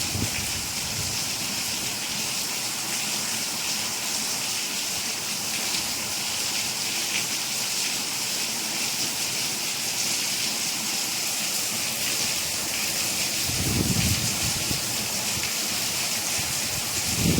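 Steady rain falling, an even hiss of many drops, with a brief low rumble about three-quarters of the way through.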